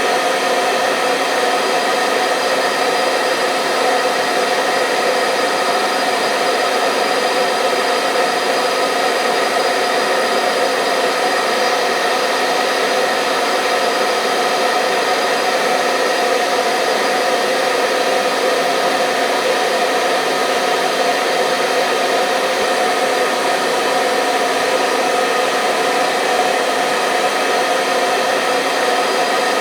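Hair dryer running continuously on a steady setting: an even rushing of air with a faint motor hum, unchanging throughout.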